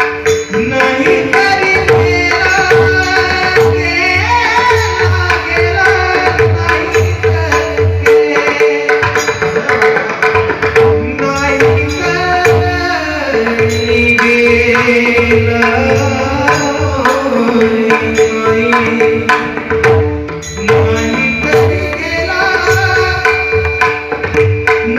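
Indian devotional music: a pakhawaj drum plays dense, continuous strokes under a steady held drone note and a wavering melody line.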